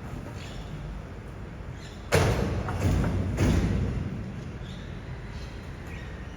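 Garbage truck running steadily, with a sudden heavy thud about two seconds in and two more loud knocks over the next second and a half, then back to the steady running.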